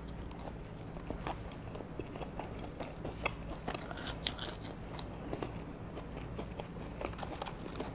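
Close-up eating sounds: a person chewing and biting McDonald's chicken McNuggets and french fries, with short soft crunches and mouth clicks scattered through.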